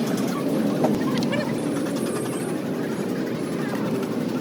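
Indistinct voices over steady background street and traffic noise.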